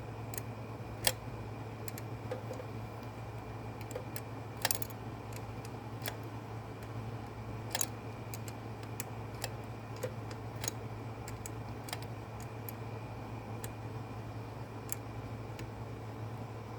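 Scattered light clicks and taps of small metal carburetor parts and hand tools being handled, irregular and a second or so apart, over a steady low hum.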